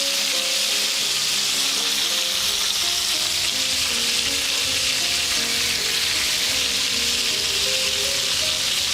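Marinated bone-in chicken pieces frying in vegetable oil and butter in a frying pan over medium heat: a steady, even sizzle.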